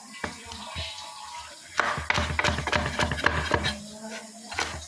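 Hands squeezing sliced banana heart in salted water: wet squishing and splashing, busiest from about two seconds in.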